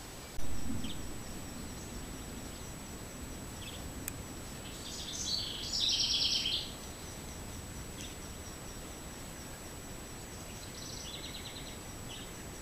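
Trail-camera microphone hiss with a thin, steady high whine, a single thump about half a second in, and a bird calling in quick trills around five to six and a half seconds in and again near eleven seconds.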